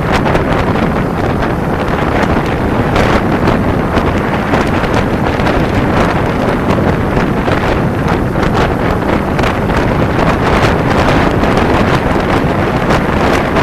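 Heavy, steady wind rushing over the camera microphone of a motorcycle moving at speed, drowning out the engine.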